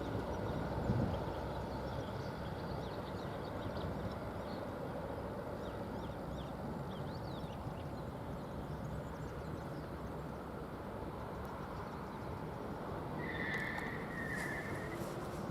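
Steady outdoor background rumble with faint bird chirps. Near the end come two short high tones, one straight after the other.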